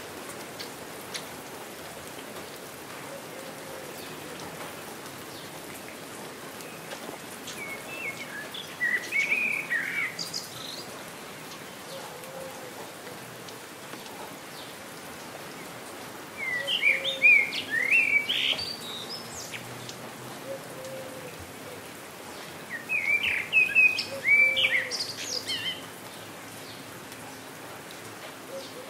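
Steady rain falling, with a songbird singing three short bursts of chirping song, one about every seven seconds.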